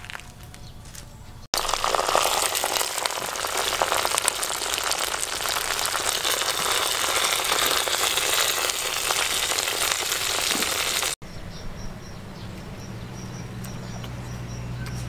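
Duck pieces frying in hot oil in a metal pot, a loud, dense crackling sizzle that cuts in about a second and a half in and cuts off abruptly about eleven seconds in. Quieter background follows, with faint regular high ticks.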